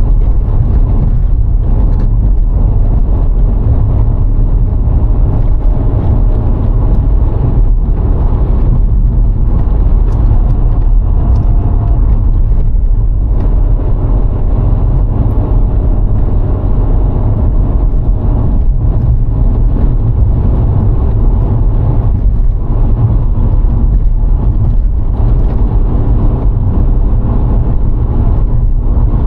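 A VW Golf IV 1.6's four-cylinder petrol engine, tyres and wind noise as the car drives along at a steady speed. The sound is a loud, even, deep rumble, with a faint engine hum above it.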